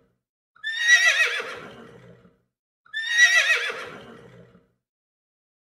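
Horse whinnying twice, about two seconds apart: the same wavering neigh repeated exactly, as a sound effect, each call trailing off.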